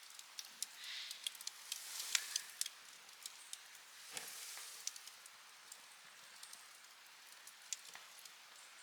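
Wood campfire crackling: scattered sharp pops and snaps over a faint hiss, with a few brief soft hissing swells.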